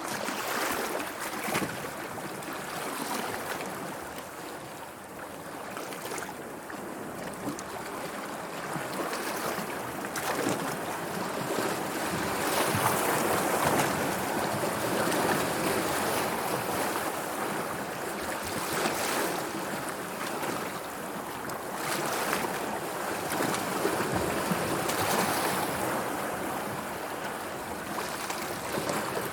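Sea waves washing and lapping, a continuous rushing of water that swells and eases in slow surges every several seconds.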